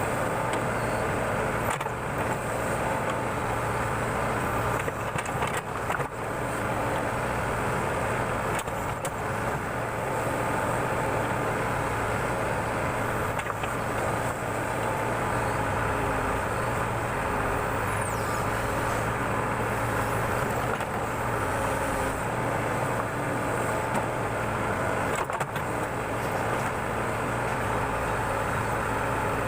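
Backhoe loader's diesel engine running steadily under working load, with no break in the sound.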